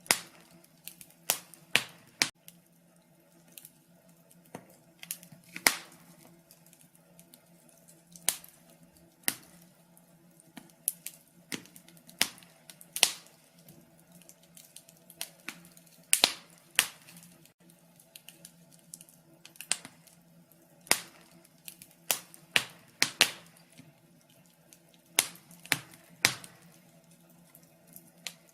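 Wood fire burning in a fireplace, crackling with irregular sharp pops and snaps of varying loudness over a faint low steady hum.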